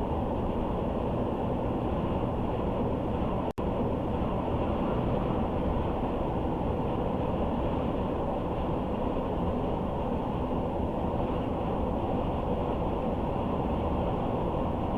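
Steady road and tyre noise of a car driving, an even rumble with no changes, cut by a split-second dropout about three and a half seconds in.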